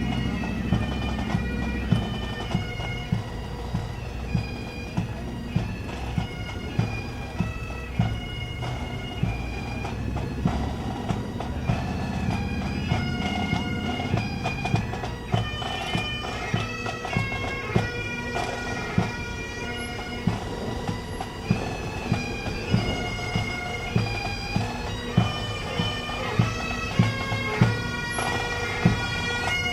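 Bagpipes playing a tune over their steady drones, with a drum keeping a regular beat.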